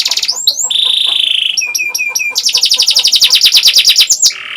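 Domestic canary singing. It opens with a fast trill of repeated high notes, then holds a steady whistled note about a second in. A few quick down-slurred notes follow, and then another long rapid trill.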